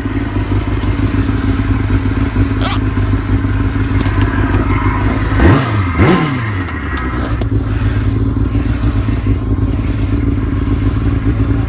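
Small motorbike engine running steadily, with a sharp swing in engine pitch about halfway through and a couple of short clicks.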